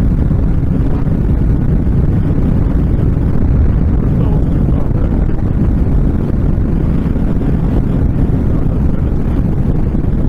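Steady rush of wind on the microphone over the V-twin engine of a Honda VTX1300 cruiser running at highway speed, with no windshield to block the airflow.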